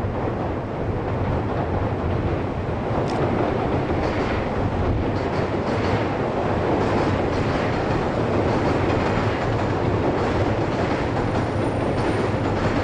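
485-series electric train running across a steel truss bridge: a steady rumble of wheels on the bridge, with repeated clacks from the rail joints.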